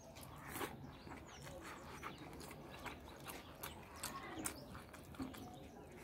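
A person chewing mouthfuls of rice and shredded carrot salad eaten by hand, a run of short sharp mouth clicks and smacks, with faint bird chirps behind.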